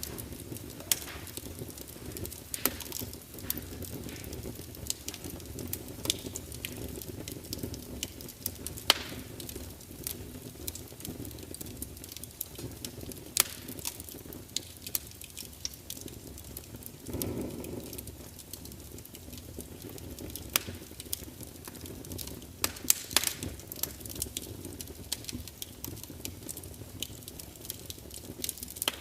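Wood fire burning in a large fireplace: a steady low rumble of flames with frequent irregular crackles and sharp pops of burning logs, a few of them louder, and a brief hiss-like swell of the flames about two-thirds of the way through.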